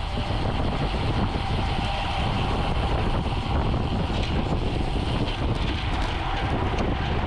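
Steady rush of wind and road noise from riding a road bicycle at speed, a dense low rumble that holds unchanged throughout.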